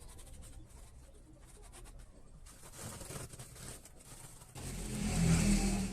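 A motor starts up about four and a half seconds in and runs with a steady hum, after a few seconds of faint knocks and scraping.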